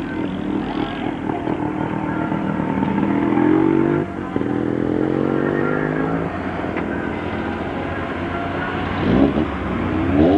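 Racing car engine accelerating hard up the hill climb, its pitch rising, dropping briefly at a gear change about four seconds in, then climbing again. Near the end there is a quick, sharp rising rev.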